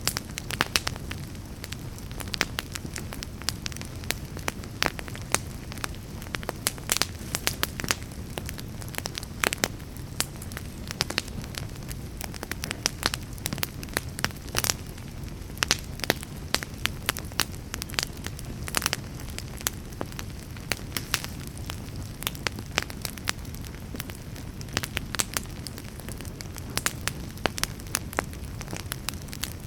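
Wood fire in a fireplace crackling and popping: a steady low rumble of flames under frequent, irregular sharp pops and snaps from the burning wood.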